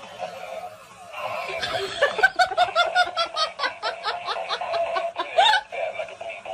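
A person laughing: a quick run of short 'ha' sounds, about four or five a second, starting about two seconds in and ending in a louder burst.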